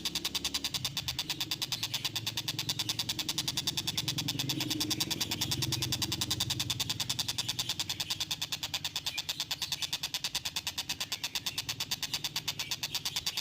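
Tengkek buto kingfisher calling in a fast, even stream of short, sharp notes, several a second, that sounds like a chugging train. A low rumble sits underneath and swells in the middle.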